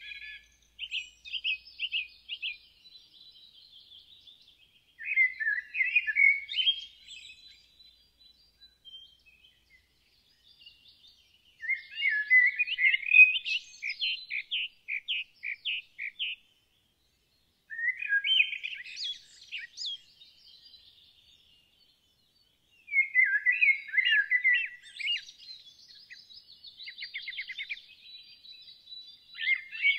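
Songbirds singing in phrases of quick chirps and trills a few seconds long, with short pauses between them; new phrases start about 5, 12, 18 and 23 seconds in.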